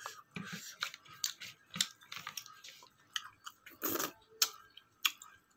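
Close-miked chewing: irregular wet mouth clicks and small crunches, with the biggest bite about four seconds in.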